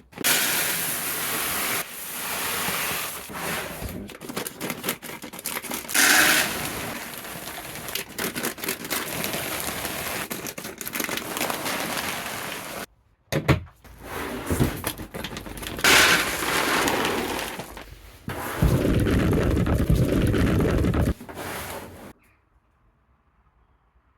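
Dry bird seed pouring, a dense crackling hiss of many small grains, in two long pours split by a brief pause about halfway, the second growing heavier before it stops near the end.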